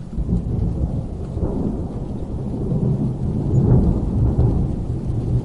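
Rolling thunder rumbling over rain, swelling to its loudest about three and a half seconds in.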